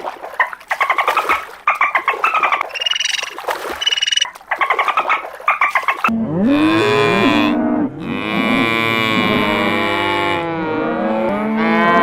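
Cattle mooing: long, drawn-out low calls, starting about halfway in. Before them comes a run of rapid pulsed calls from another animal.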